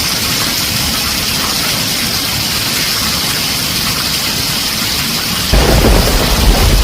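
Heavy rain drumming on a tin roof, a steady dense hiss. About five and a half seconds in, a low rolling rumble of thunder comes in and the whole sound grows louder.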